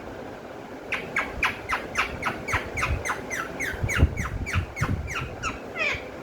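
Pet parrot giving a rapid run of short squawks, about four a second, each falling in pitch, starting about a second in.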